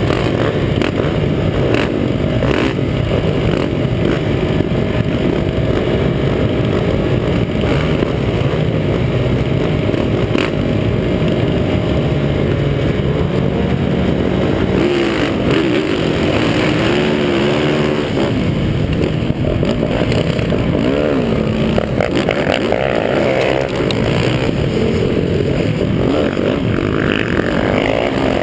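Motocross bike engines idling and revving at the starting gate. Partway through, the revs rise and fall repeatedly as the bikes launch and race off the start, with the camera bike's engine loudest.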